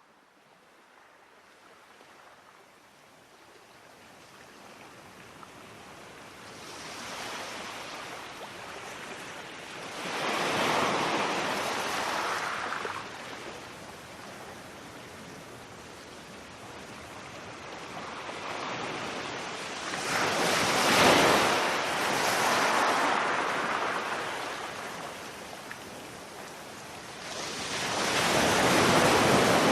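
Sea waves breaking on a beach, a rushing wash that fades in from quiet and then surges and ebbs, with big swells about ten seconds in, about twenty seconds in and near the end.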